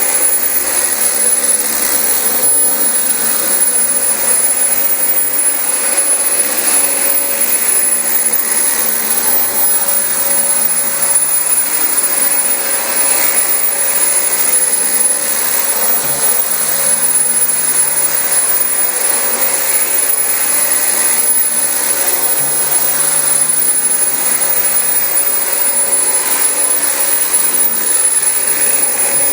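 Dyson DC25 bagless upright vacuum cleaner running steadily while vacuuming carpet, an even motor-and-airflow noise with a constant high whine.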